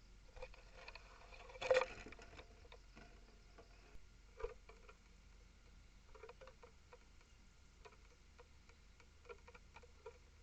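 Small creature feeding at a bird table: irregular light taps and clicks on the tray, with a louder knock and brief rustle about two seconds in.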